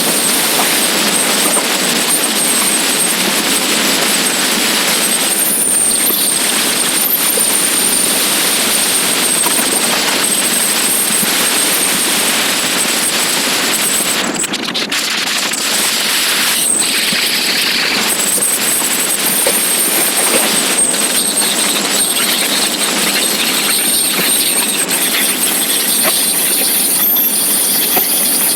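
Steady loud hiss of wind and road noise while riding a motorcycle, with a thin, steady high-pitched whine over it.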